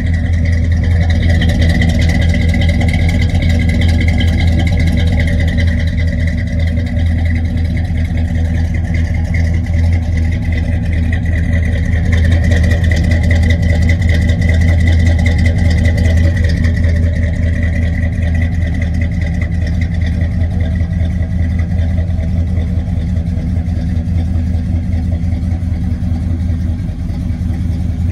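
Oldsmobile 455 cubic-inch big-block V8 idling steadily through its dual exhaust, a little louder about halfway through.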